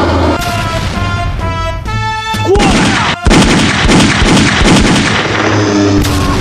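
Cartoon bombing sound effects over background music: a few seconds of music, then from about halfway in a dense run of explosions and gunfire-like bangs.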